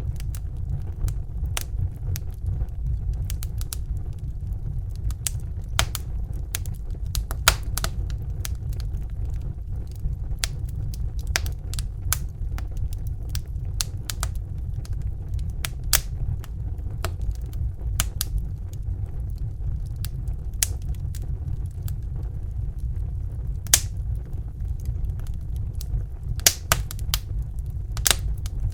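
Crackling fire: irregular sharp pops and snaps, a few a second at most, over a steady low rumble.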